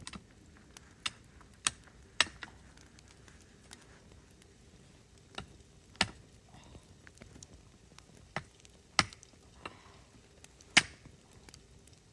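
Sharp, isolated taps and clicks at irregular intervals, about a dozen, over faint background hiss.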